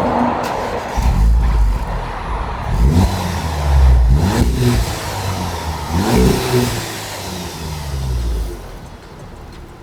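Mk7.5 VW Golf R's turbocharged 2.0-litre four-cylinder engine revved through its current exhaust, before the upgrade: several throttle blips, each a quick rise in pitch, then settling to a quieter idle near the end.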